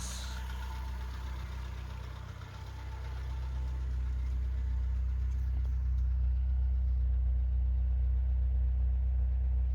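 A 2005 Opel Corsa Lite 1.4i's four-cylinder petrol engine idling steadily with a low hum, just after a radiator replacement and coolant refill. It gets louder about three seconds in, then holds steady.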